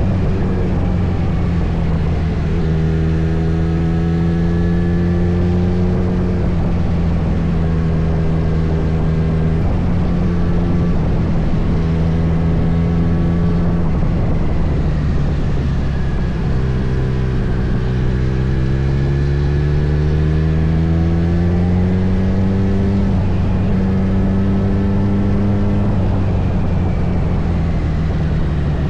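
Kawasaki Z900's inline-four engine running on the move. The note holds steady and shifts in steps several times, then climbs for a few seconds about two-thirds of the way in as the bike speeds up.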